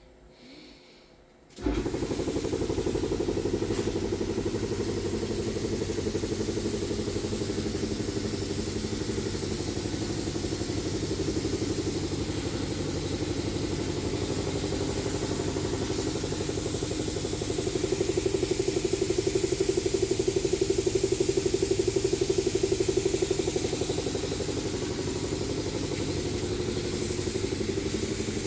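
Electric piston air compressor switching on about two seconds in and running steadily with a fast, even pulsing, a little louder for a few seconds past the middle.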